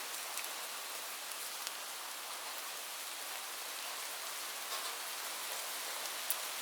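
Steady rain falling as an even hiss, with occasional sharper drop ticks, one standing out near the end.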